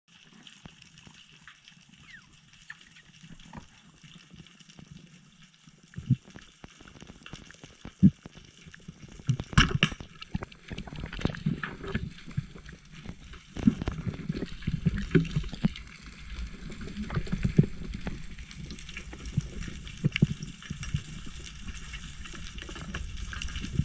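Seawater sloshing and gurgling around the microphone, with scattered knocks and splashes. It starts faint and becomes busier and louder from about six seconds in.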